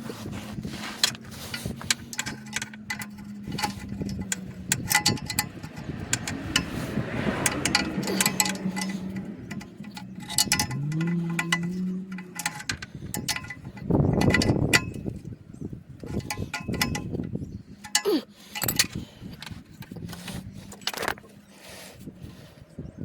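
Workshop sounds from work on a car's exhaust: scattered metallic clinks and knocks of tools and exhaust parts. A steady hum stops about nine seconds in, a short whir rises and falls a couple of seconds later, and a louder rushing noise comes around fourteen seconds.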